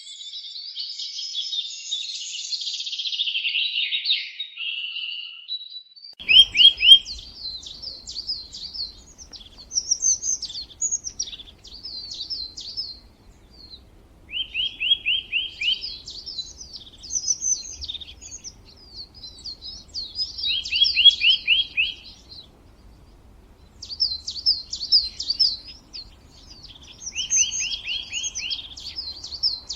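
Songbird singing. A dense mix of high chirping fills the first few seconds. After that one song repeats about every seven seconds: a quick trill of short notes, then varied high chirps.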